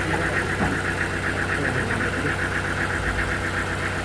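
Sawmill machinery running steadily: an engine drone with a fast, even pulsing.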